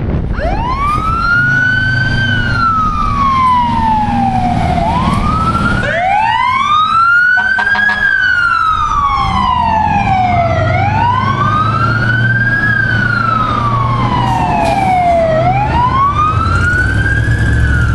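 Fire engine siren wailing, each cycle rising quickly and falling slowly over about five seconds, with two sweeps overlapping at times, over the steady low rumble of the truck's engine.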